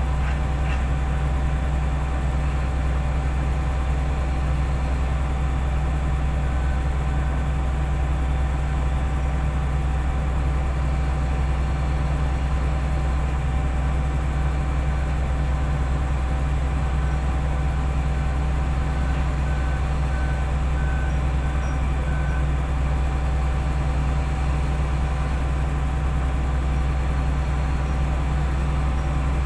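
Heavy diesel engine of earth-moving equipment running steadily at an even speed, a deep unchanging drone with no revving.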